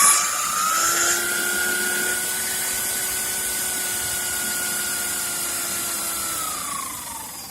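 Electric car radiator cooling fan running with a steady whine that climbs in pitch as it speeds up over the first two seconds, holds, then drops as the fan slows near the end.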